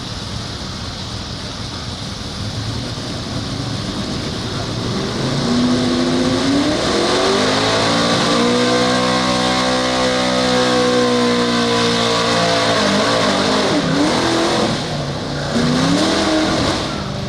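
Pulling truck's engine revving hard under load. Its pitch climbs about five seconds in and is held high for several seconds before easing down. Near the end it drops and revs up again twice, briefly.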